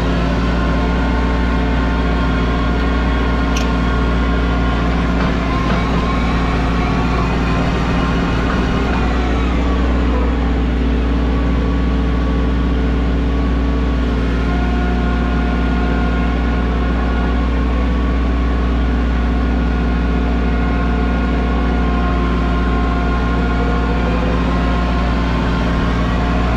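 Mahindra 1626 compact tractor's diesel engine running steadily, with a low drone and a set of higher tones that slide down in pitch about eight to ten seconds in.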